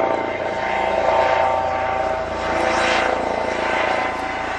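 Eurocopter EC135 P2 rescue helicopter approaching to land, its rotors and turbines running with a steady whine over a rushing noise that swells about a second in and again near three seconds.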